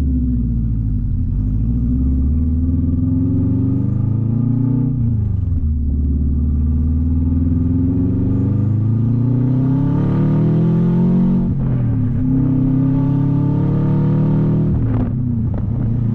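Turbocharged Subaru flat-four running through a 3-inch catless open downpipe with no other exhaust, loud and raw. It climbs in pitch under acceleration, drops sharply at gear changes about five and twelve seconds in, then holds steadier, with a brief dip near the end.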